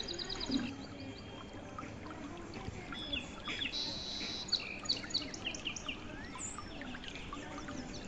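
Birds chirping and calling, many short high calls, with a fast trill right at the start and a buzzy note about halfway through.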